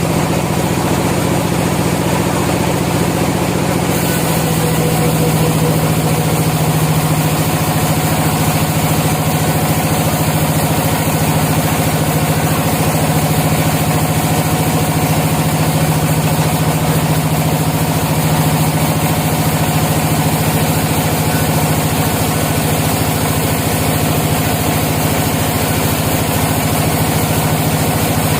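Sawmill machinery running steadily with a constant hum, its tone shifting slightly about four seconds in.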